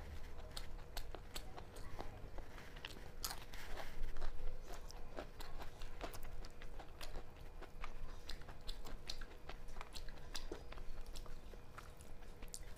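Close-up chewing of a person eating peas pulao and spicy chicken curry by hand: a steady run of wet clicks and smacks of the mouth, a little louder about four seconds in.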